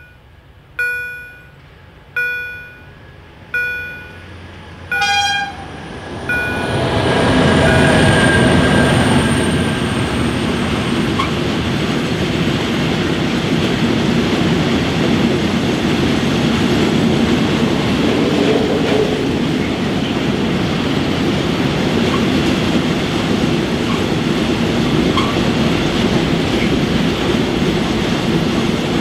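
Level-crossing warning bell striking about once every 1.4 seconds, four times. Then a freight train of open-top wagons arrives about six seconds in and runs steadily past the crossing, its wheels and wagons rumbling on the rails.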